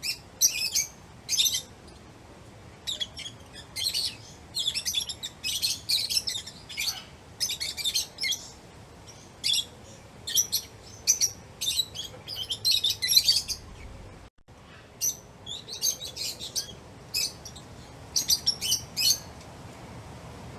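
Lovebirds chirping: quick high-pitched chirps in irregular bursts separated by short pauses.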